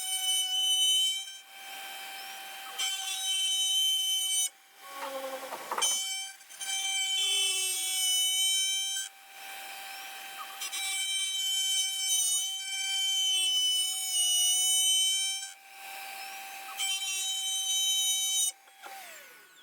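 CNC router spindle running at a steady high whine while the bit cuts a wooden coaster, the cutting noise swelling and dropping every second or two as the tool moves in and out of the wood. Near the end the spindle's pitch falls as it spins down at the end of the program.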